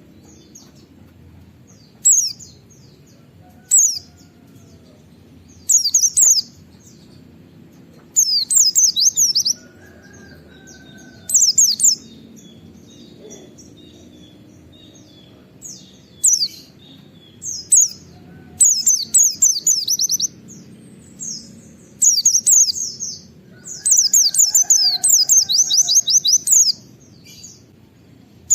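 White-eye (pleci) singing in repeated bursts of fast, high, falling 'wit-wit' notes. Some bursts are short and some run for two to three seconds, with pauses between them.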